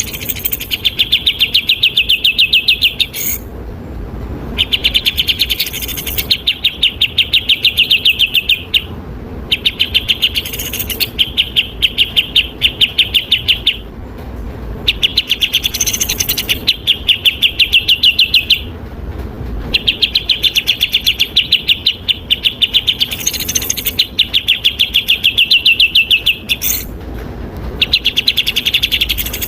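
Recorded songbird call played for bird training: fast rattling trills of rapidly repeated notes, about eight bouts each lasting two to four seconds and separated by brief pauses.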